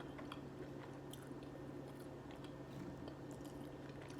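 Soft close-up chewing of a McDonald's Chicken McNugget, with small wet mouth clicks, over a steady low hum.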